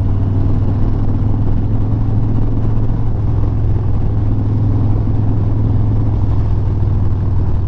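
Harley-Davidson Sport Glide's Milwaukee-Eight V-twin engine running steadily while riding, a steady low drone under a noisy hiss of wind and road noise.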